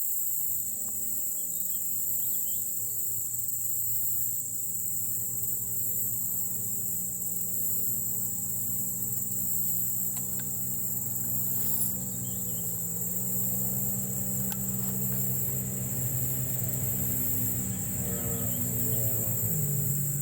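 Steady high-pitched chorus of insects, with a distant engine droning low underneath, its pitch drifting slowly up and down.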